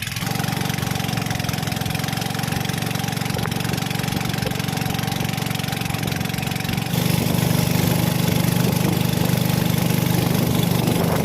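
Fishing boat's engine running steadily as the boat heads out to sea; it gets abruptly louder about seven seconds in.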